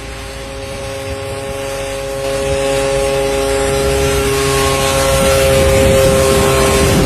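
Engine of a homemade ultralight aircraft, built from a Kawasaki motorcycle engine, running at a steady pitch and growing steadily louder.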